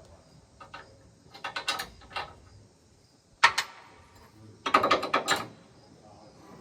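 Hand ratchet wrench clicking in three short bursts, turning bolts while combine concaves are being changed.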